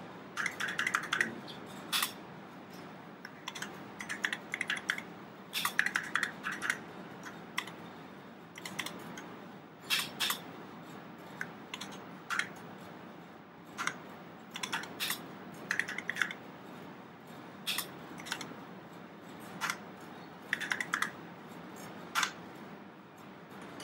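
Typing on the vintage keyboard of an original 1976 Apple-1 computer: keys clack in quick, irregular runs with short pauses between them.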